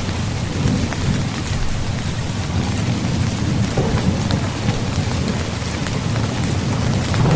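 Steady rain falling on a tent, scattered drop ticks over a dense patter, with a deep continuous rumble underneath.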